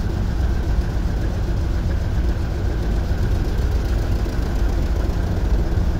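Cargo ship engine room: diesel machinery running with a loud, steady, low drone that does not change.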